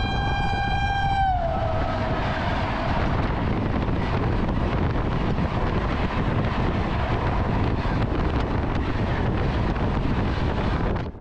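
An oncoming WAP-4 electric locomotive's horn sounds one long note whose pitch drops about a second in as the locomotive passes, then fades. Its coaches follow with a loud, steady rush of wheels on rails and wind until the sound cuts off suddenly.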